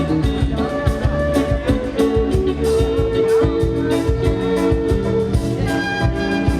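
A live band playing, with a steady beat. A strong held note rises out of the mix about two seconds in and drops back near the five-second mark.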